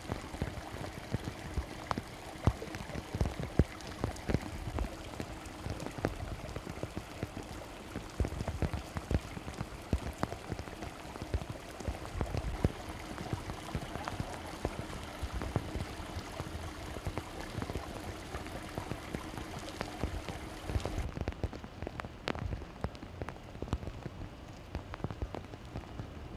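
Heavy rain pouring down, with many sharp drop impacts close by in a dense, steady patter.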